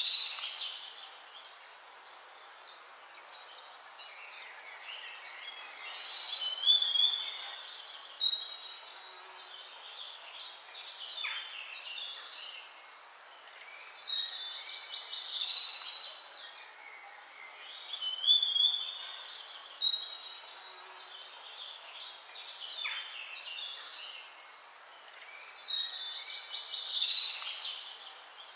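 Songbirds singing. Short, high-pitched song phrases of chirps and trills come every few seconds, over a faint steady hiss of background ambience.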